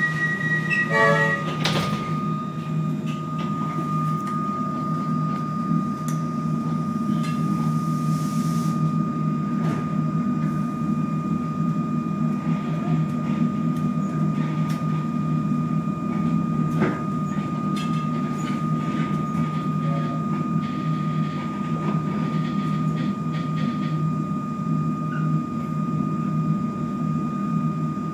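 Cabin sound of a Comeng electric suburban train getting under way and running: a steady low rumble under a steady high whine, with occasional clicks from the wheels over the rail joints. A short run of beeps and a sharp knock come about a second in.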